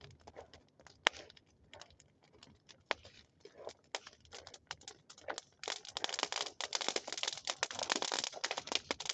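Bonfire crackling, with scattered sharp pops, then from about six seconds in a much louder, dense run of crackling.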